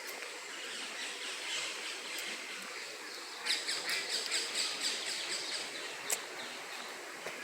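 Birds chirping: a quick run of high, rapidly repeated chirps from about three and a half to six seconds in, over faint outdoor background noise. A single sharp click comes just after the chirps.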